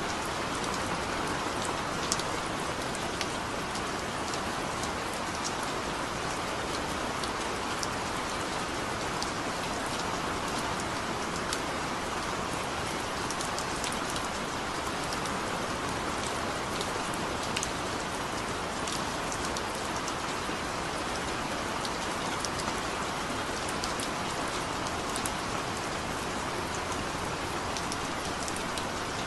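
Heavy rain falling steadily, a constant hiss with many sharp individual drop ticks on a surface.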